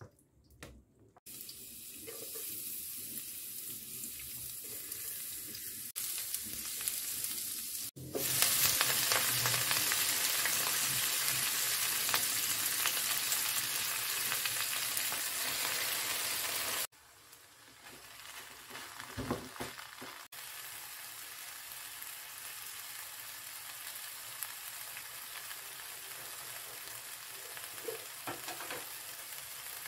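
Hot oil sizzling in a non-stick pan, turning much louder about eight seconds in as a load of fresh watercress fries. The greens then sizzle more quietly while being stir-fried, with a few short scrapes of a utensil on the pan.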